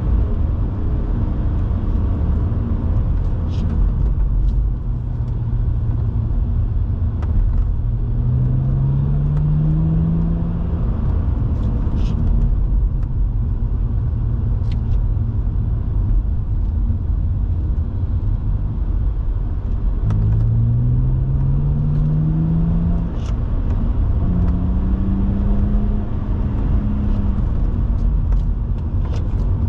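BMW 130i's 3.0-litre inline-six heard from inside the cabin while cruising, over a heavy low road and tyre rumble. About eight seconds in and again about twenty seconds in it pulls up in revs, and after the second pull it holds a higher note for a few seconds.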